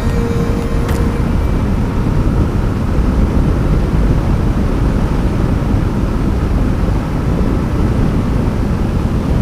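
Steady low wind rumble and road noise from a Yamaha MT-15 motorcycle being ridden at speed, with the bike's single-cylinder engine running underneath.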